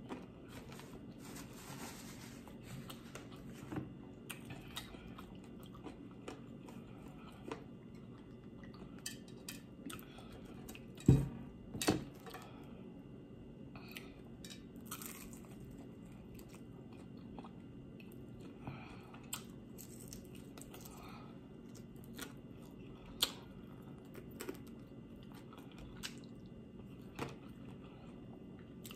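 Close-up chewing and biting of sauced air-fried chicken wings, with wet smacks and small crunches scattered throughout. Two louder knocks come about eleven and twelve seconds in.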